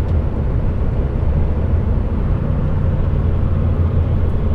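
HGV lorry's engine and road noise heard inside the cab while driving: a steady low drone.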